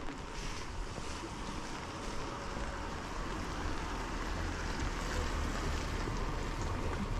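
Steady rain falling, with a low rumble underneath that grows louder from about four seconds in.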